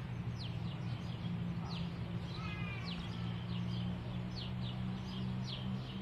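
Small birds chirping repeatedly with short, high, falling notes, with a brief run of descending notes about two and a half seconds in, over a steady low hum.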